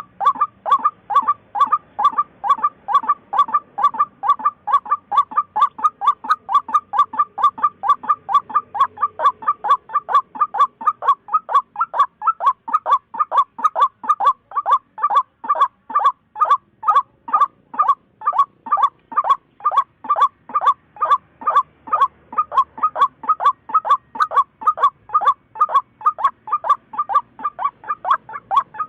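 White-breasted waterhen calling: a long, unbroken series of short, evenly repeated 'kook' notes, about three a second.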